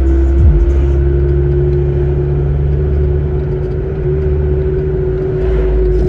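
Motor vehicle engine running steadily with road rumble, its engine note holding nearly level.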